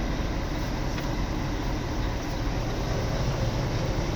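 A vehicle running steadily, a constant low rumble with even noise above it.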